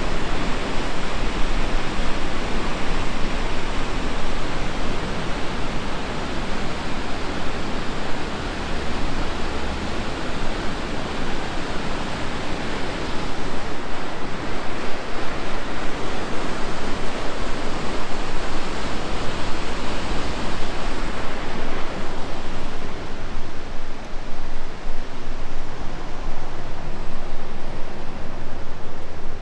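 Steady rush of fast-flowing water over a waterfall or rapids in the gorge, a continuous even roar that softens slightly in its hiss late on.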